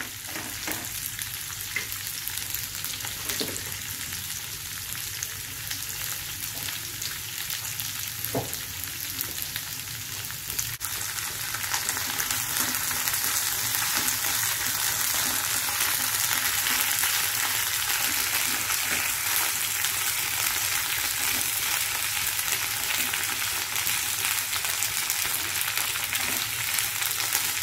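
Cut okra sizzling as it shallow-fries in oil in a non-stick wok, stirred now and then with a silicone spatula. The sizzle grows louder about ten seconds in.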